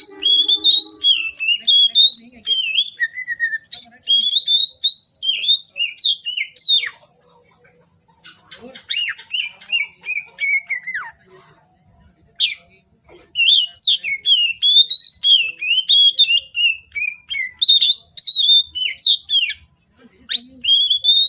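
Oriental magpie-robin (kacer) singing in fast, varied whistled phrases that swoop up and down, with a lull of softer notes in the middle before the full song starts again.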